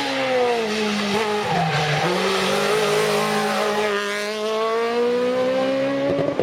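Rally car engine running hard at high revs. The pitch dips briefly about a second and a half in, then climbs steadily through the second half as the car accelerates.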